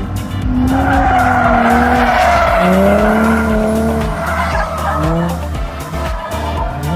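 A car drifting: tyres squealing loudest from about a second in until about four seconds, while the engine's pitch swings up and down. Background music with a steady beat plays underneath.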